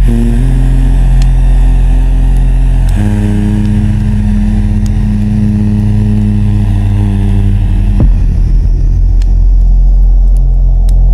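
Calm ambient music of low, sustained chords that shift to a new chord about three seconds in and again about eight seconds in, over the scattered small pops and crackles of a campfire.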